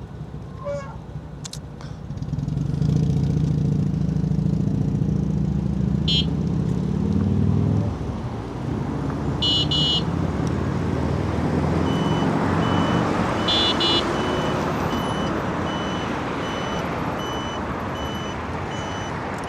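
Road traffic: a motor vehicle's engine runs close by for several seconds, then fades into steady traffic noise. From about two-thirds of the way in, a reversing beeper sounds steadily, about two beeps a second, with a few short higher chirps before it.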